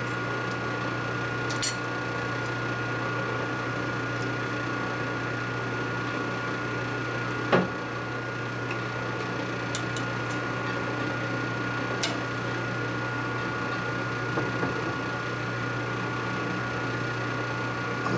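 Steady motor hum of running shop machinery, with a few light clicks and one sharper knock about seven and a half seconds in.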